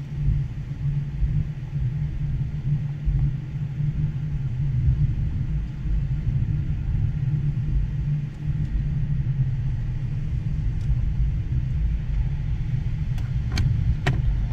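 Steady low rumble heard from inside a stopped car as a double-stack container train rolls past. About a second before the end come three sharp clicks.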